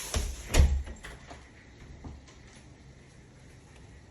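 Front door shutting with two thumps about half a second apart, cutting off the hiss of heavy rain outside; after that it is quiet except for a few faint clicks.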